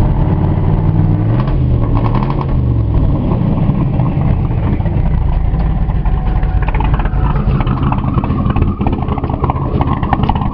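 Twin-turbocharged Ford 302 V8 with a Comp 292 Magnum cam idling steadily, its engine speed rising and falling briefly about a second in.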